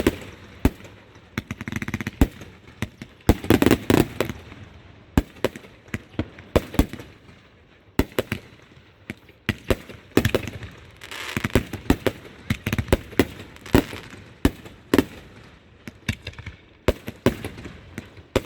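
Fireworks going off: a long run of sharp bangs and crackling pops, some in quick clusters, with hissing between the bursts.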